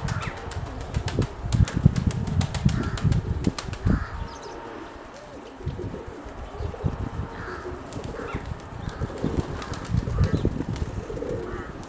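Nikolaev pigeons' wings flapping, with a fast run of wing clicks in the first four seconds that thins out afterwards, over gusty wind buffeting the microphone.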